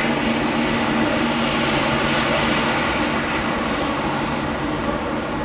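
Airbus A320-211's CFM56 jet engines running loud and steady, a rushing roar with a steady hum of low tones under it, easing slightly near the end.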